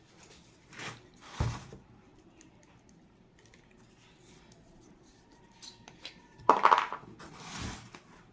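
Handling noises from working with the broken door-jamb pieces and a super glue bottle: a soft knock, then a louder knock about one and a half seconds in, a few light clicks, and the loudest clatter with a rustle near the end.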